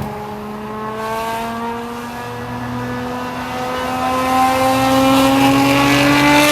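Ferrari 599's 6.0-litre V12 with aftermarket headers and a full race exhaust pulling through a gear under load, its note rising slowly and steadily in pitch and getting louder from about four seconds in.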